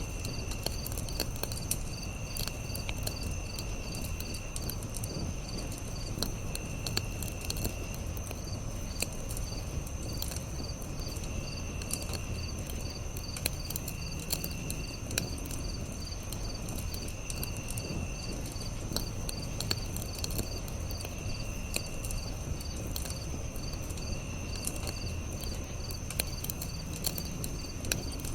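Campfire crackling with scattered sharp pops over a low rumble, while crickets chirp in a steady high pulse and short insect trills come every few seconds.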